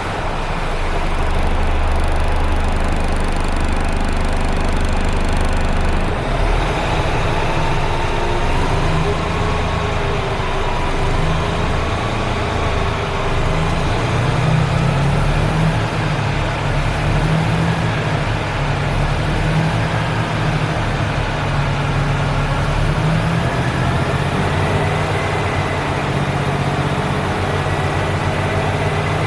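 Mercedes-Benz Antos 2536 lorry's diesel engine idling steadily just after a cold start; the low idle note changes about six seconds in and then settles.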